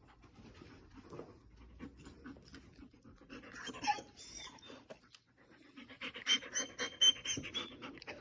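Dog panting, with two bursts of quick rattling about three and six seconds in; the second burst is longer and louder.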